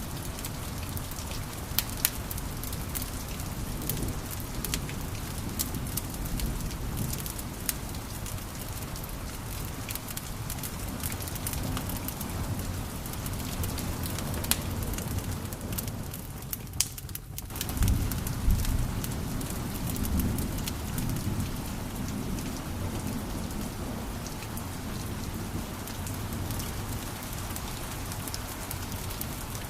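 Wood fire crackling in a fireplace: a steady low rumble of flames with many small sharp pops and snaps. It drops out for a moment just past halfway, then comes back with a short low whoosh.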